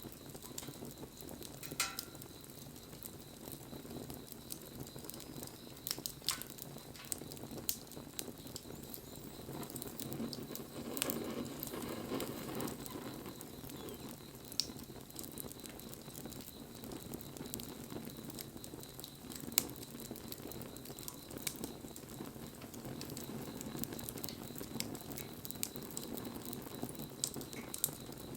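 Wood bonfire burning: a steady low rush of flame with scattered sharp crackles and pops.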